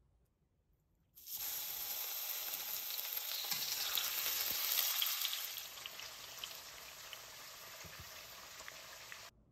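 Tofu frying in oil in a pan: a steady sizzle with small pops. It starts suddenly about a second in, eases off about halfway, and cuts off abruptly near the end.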